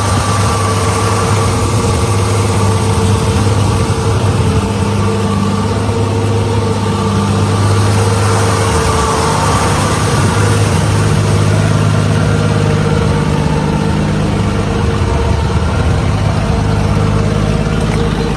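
1965 Ford Mustang's 200 cubic-inch inline six-cylinder engine idling steadily.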